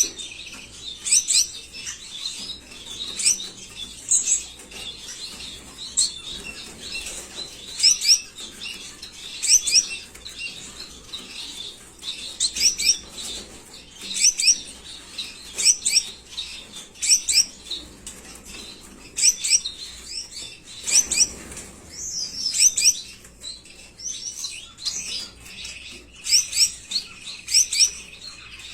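Small pet parrots chirping: short, high, quickly rising-and-falling chirps in little clusters, repeated every second or two.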